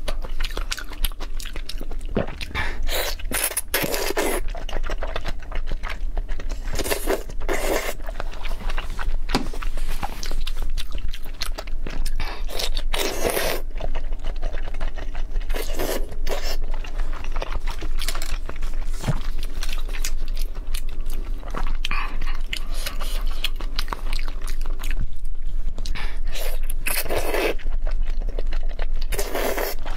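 Close-miked wet chewing and mouth smacking of raw salmon slices in spicy sauce, in repeated bursts every second or two with small clicks between them.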